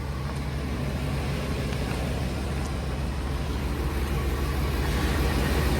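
2016 Ford E350 box truck's engine idling with a steady low hum, very quiet, growing gradually louder.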